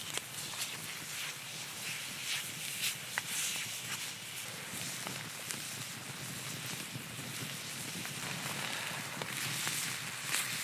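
Rain pattering on a tarp over a crackling campfire: a steady hiss with many scattered sharp ticks and pops.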